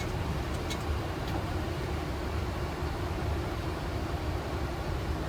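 Steady Boeing 737 flight-deck noise in descent: a constant rush of air with a low rumble underneath and a faint steady hum, with a couple of faint clicks about a second in.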